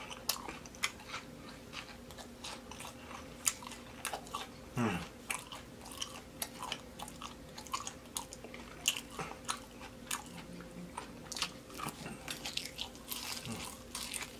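Close-up eating of a crispy deep-fried pork baby back rib: chewing and biting, an irregular stream of crunchy, wet mouth clicks and smacks.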